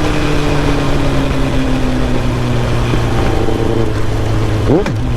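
Kawasaki ZX-7R's inline-four engine running at steady moderate revs under way, its note sagging slightly at first, with a quick sharp rise and fall in revs near the end; rushing wind noise underneath.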